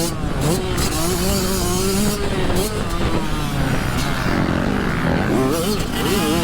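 Dirt bike engines revving on a motocross track, their pitch rising and falling over and over with throttle and gear changes.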